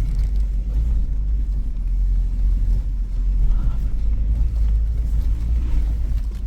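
Suzuki Jimny driving slowly over a rough, rocky off-road track: a steady low rumble of engine and tyres.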